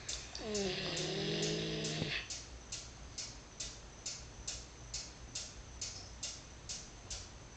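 A sleeping border collie gives one drawn-out, moaning snore about half a second in, starting high and falling in pitch, then holding for about a second and a half before it stops. A steady ticking, a little over twice a second, runs underneath.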